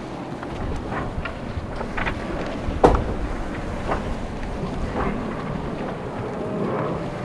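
Wind on the microphone and water noise aboard a racing sailboat under way, with scattered knocks and a sharp thump about three seconds in.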